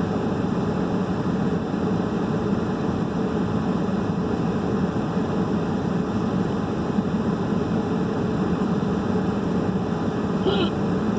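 Heater running with a steady low hum and rush of blown air.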